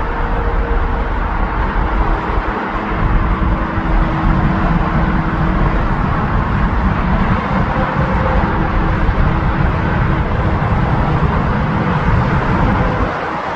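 Jet airliner engines running, a loud, steady rumble with a faint high whine on top, easing slightly near the end.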